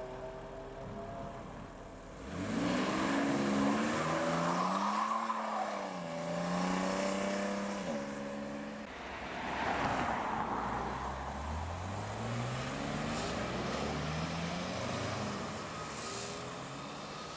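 Modified BMW cars pulling away one after another, engines revving with the pitch climbing through the gears. The first and loudest comes in about two seconds in and drops off near the middle; a second climbs in pitch later on.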